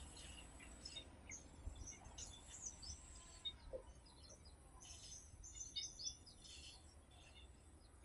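Faint, high-pitched chirps and twitters of small birds, scattered throughout and busiest about five to seven seconds in, over a low background rumble.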